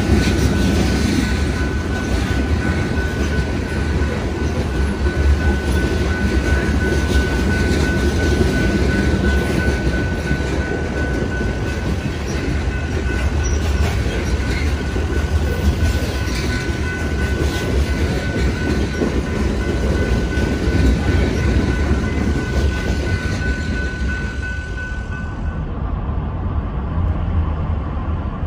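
Train rolling past, its wheels running on the rails in a steady loud rumble with a thin, steady high-pitched tone over it. The tone and the sharper hiss cut off about three seconds before the end, leaving the low rumble.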